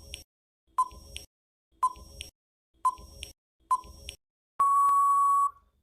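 Countdown timer sound effect: five short beeps about a second apart, then one longer, steady beep lasting about a second that marks the end of the countdown.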